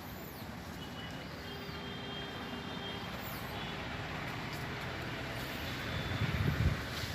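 Steady road traffic noise, with a vehicle passing close by, louder about six seconds in.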